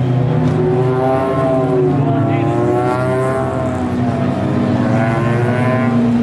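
Race car engines running hard on a road course, their pitch rising and falling through the gears as the cars pass.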